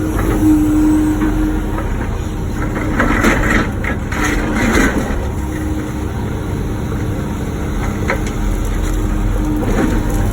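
Wacker Neuson ET145 excavator's diesel engine running under work, with a whine that comes and goes as the machine moves. About three seconds in there is a stretch of scraping and crunching as the bucket works broken blacktop and concrete, and a few sharp knocks follow near the end.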